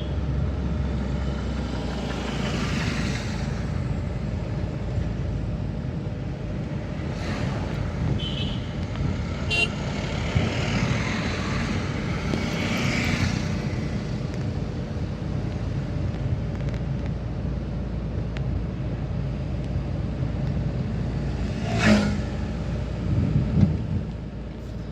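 A vehicle driving on a dirt forest road: steady engine and road rumble, with a few brief clicks and a sharper knock near the end.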